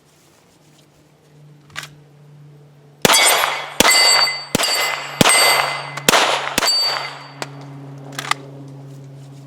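Six shots from a 9mm Glock 17 pistol, fired at a slow, even pace about two-thirds of a second apart, starting about three seconds in. Each shot is followed by a ringing metallic clang like a steel target being hit.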